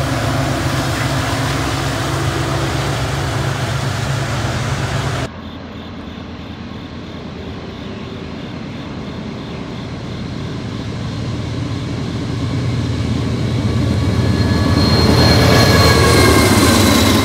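A Norfolk Southern GE ET44AC diesel locomotive hauling coal hoppers runs past close by, its engine hum under the steady rumble of the train. It cuts off abruptly about five seconds in, and another diesel locomotive approaches, growing steadily louder until it passes close near the end with a whine that drops a little in pitch.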